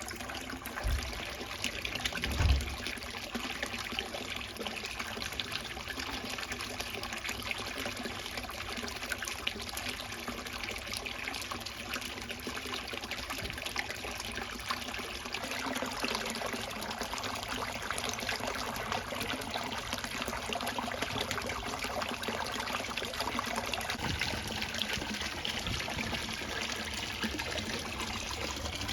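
Water trickling steadily into a garden koi pond. Two brief low thumps come in the first few seconds, the second the loudest.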